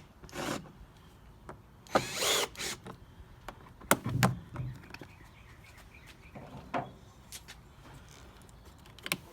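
A cordless drill-driver whirring in short bursts of about half a second, backing out the screws of a generator's battery cover, with a few sharp clicks and knocks from the cover and tool in between.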